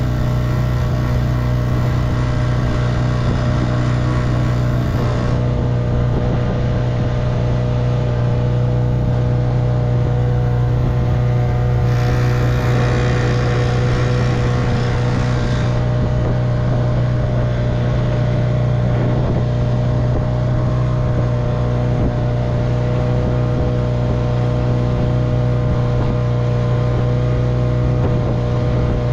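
1958 Evinrude 3 hp two-stroke outboard motor running at a steady speed, pushing the boat along. A brief rush of hiss joins it about twelve seconds in for a few seconds.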